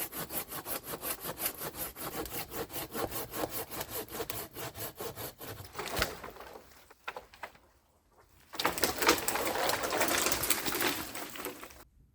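Hand saw cutting dead wood in quick, even back-and-forth strokes, a brief pause about seven seconds in, then a stretch of denser sawing that cuts off suddenly near the end.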